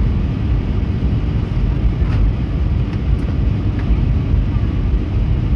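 Steady low rumble of an Airbus A320neo's engines and airflow, heard from inside the passenger cabin.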